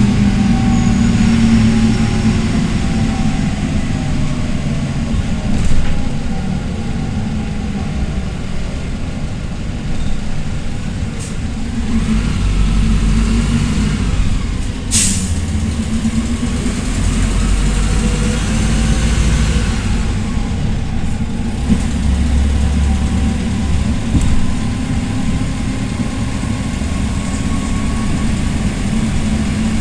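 PAZ Vector Next bus running in traffic, its engine and drivetrain note falling over the first few seconds, then rising and easing off again. A single brief, sharp hiss of air cuts in about halfway through.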